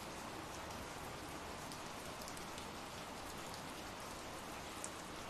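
Soft, steady rain falling, with scattered individual drops ticking now and then.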